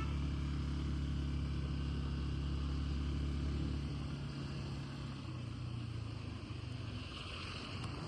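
A vehicle's engine running steadily while driving, with road noise. Its low hum eases about halfway through.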